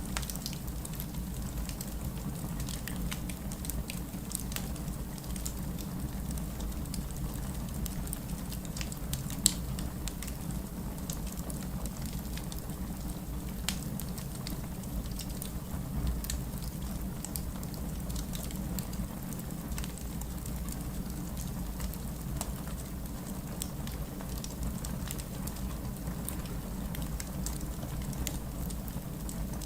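Steady rain ambience mixed with a fireplace crackling, scattered small pops over a low rumble, with one sharper pop about nine seconds in.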